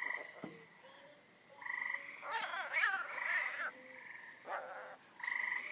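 Frog giving a whining, cat-like call: about five short buzzy bursts, with a longer wavering whine in the middle. The frog is puffed up with air, which its handler thinks is what makes the noise come out.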